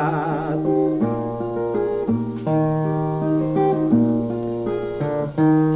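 Brazilian viola playing a plucked instrumental interlude between sung verses, its notes ringing over a moving bass line. A man's sung voice holds a wavering last note at the start.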